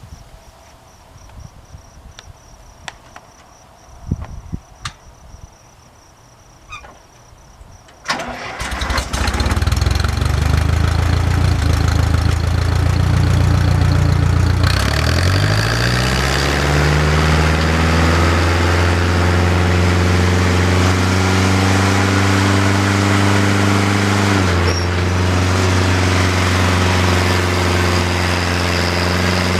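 A few faint clicks and knocks, then about eight seconds in an engine starts and runs loudly. Its pitch rises over a couple of seconds, then it settles into a steady run, with a brief dip in speed near the end.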